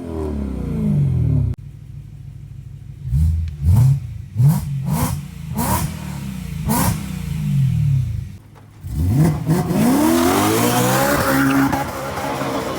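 BMW E9X M3's S65 V8 through an aftermarket exhaust, revved hard: a falling rev, then a string of quick throttle blips with sharp pops, then a rev that climbs and holds high near the end.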